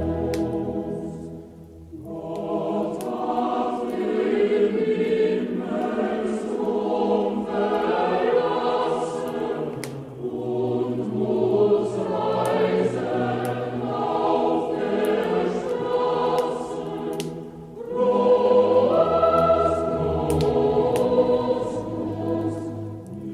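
A choir singing a Christmas song in phrases, with short breaths between them.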